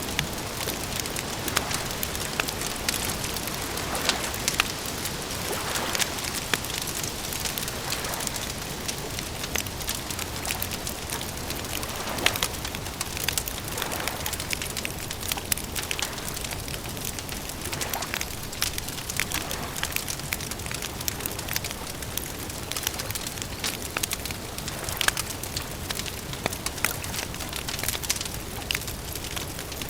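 Campfire crackling, with frequent sharp pops and snaps over a steady hiss.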